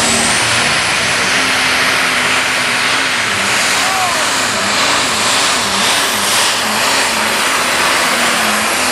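Case IH diesel super stock pulling tractor running at full throttle under load, with a high turbo whistle that climbs at the start, holds, and falls away near the end. The lower engine note wavers up and down partway through the run.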